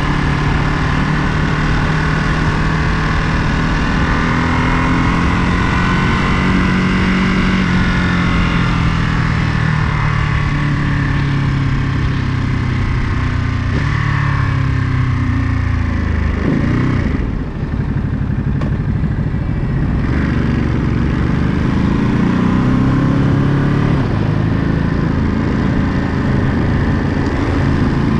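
Ducati Monster 937's 937 cc L-twin engine running through the gears on the road, its pitch rising and falling with the throttle. About seventeen seconds in, the pitch falls away as the bike slows, and it climbs again as it pulls away.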